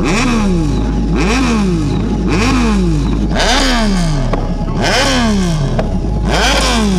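A motorbike engine revved in repeated blips, about six, each rev climbing quickly and falling back over most of a second, over a steady low drone.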